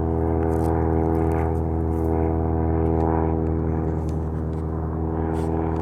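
Small single-engine propeller plane droning steadily as it flies away at level cruise, a constant engine hum that eases slightly in the second half.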